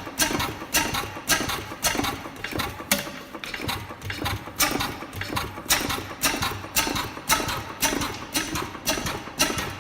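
Circa-1914 Crossley KK single-cylinder hot-tube oil engine running slowly, with sharp regular knocks about twice a second.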